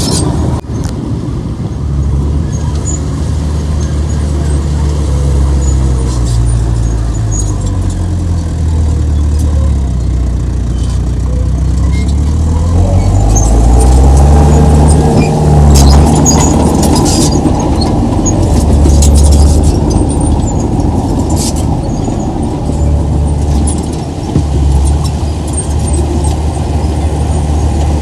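Heavy diesel engine of earthmoving machinery working under load, its pitch rising and falling several times as it revs, with a few sharp metallic clicks and squeaks.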